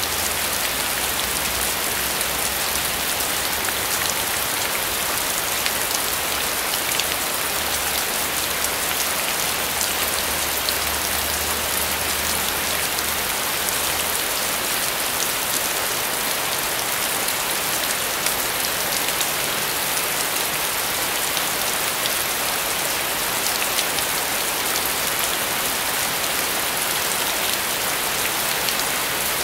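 Heavy rain pouring steadily onto a flat concrete roof and the trees around it: a dense, even hiss with the fine ticks of single drops striking close by.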